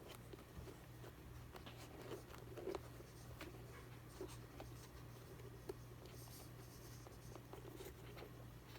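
Faint, scattered small clicks and scratching of hands working the small parts of a shoe's wire-lace dial, over a steady low hum.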